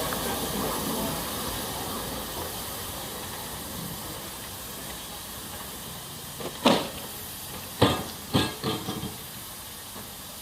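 Steam locomotive No. 4 "Loch" (Beyer, Peacock, 1874) hissing steam steadily, slowly getting quieter. About two-thirds of the way in, a few short, sharp bangs come in quick succession.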